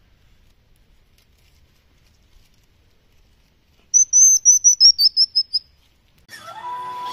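Baby hedgehog's high-pitched whistling distress calls: a rapid series of about ten short chirps over less than two seconds, falling slightly in pitch toward the end.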